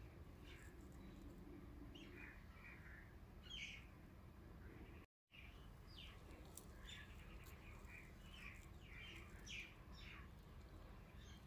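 Faint birds chirping: short, high chirps repeated many times over a low, steady background hum. The sound cuts out completely for a split second about five seconds in.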